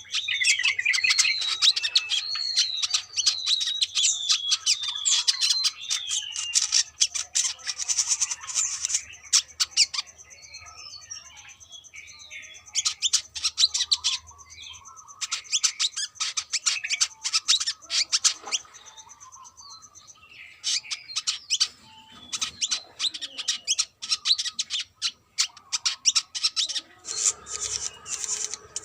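Brown-throated sunbird singing: a fast, busy stream of high chirps and chattering ticks. It opens with a run of short down-slurred notes, with brief lulls about ten and twenty seconds in.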